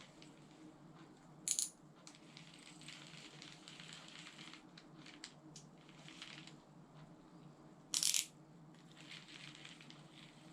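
A baitcasting reel being handled, with light clicking and rustling and two short, sharp metallic clacks, one about a second and a half in and one about eight seconds in, over a steady low hum.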